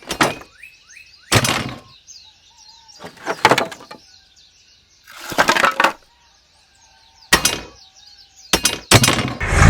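About six separate bursts of breaking, crumbling noise, each half a second to a second long with short pauses between. Birds chirp faintly in the gaps.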